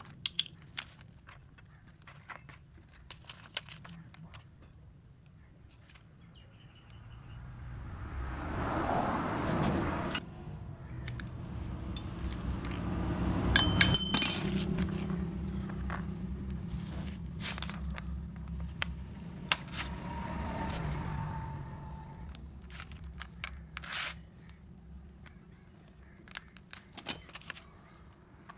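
Metal tools and motorcycle engine parts clinking and tapping, in scattered sharp clicks, during cylinder head fitting. A low rumble swells about eight seconds in and fades after about twenty seconds.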